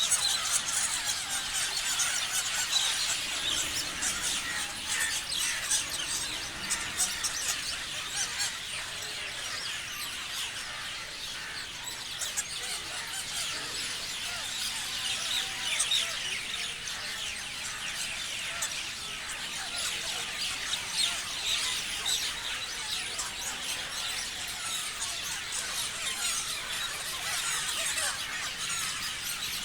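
A flock of parrots chirping, many short high calls overlapping in a dense, unbroken chorus.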